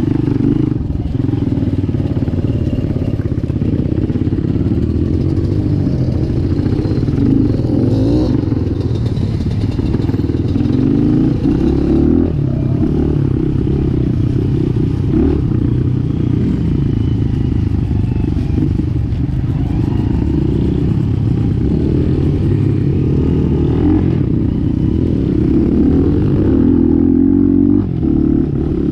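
Dirt bike engine running as the bike is ridden, its revs rising and falling with the throttle and staying loud throughout.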